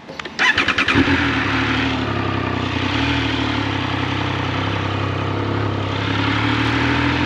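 Triumph Speed Triple 1200 RS's 1160 cc inline three-cylinder engine cranked on the starter and catching about a second in, then running steadily at low revs as the bike pulls away.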